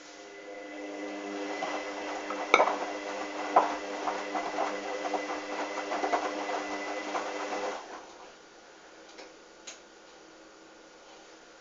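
Hoover washing machine turning its drum on a wash cycle: a steady motor hum with a busy patter of clicks and knocks as the wet towels tumble, two louder knocks about a second apart. The drum stops about eight seconds in.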